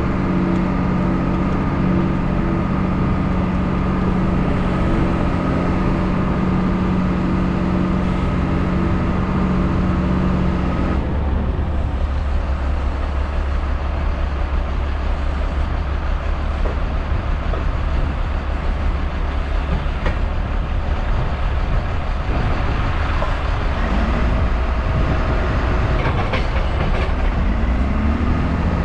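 Heavy diesel engine running steadily. About eleven seconds in, its steady hum drops away and a deeper, rougher rumble takes over.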